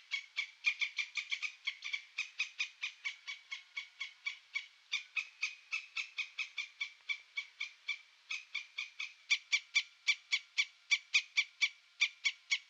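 An animal calling in a long, even series of short, sharp notes, about five a second, without a break.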